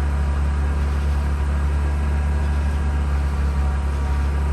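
Mazda RX-8's twin-rotor Wankel engine running steadily at idle after being de-flooded and restarted; the owner fears the idle is weak enough that it would die if he let go of the throttle.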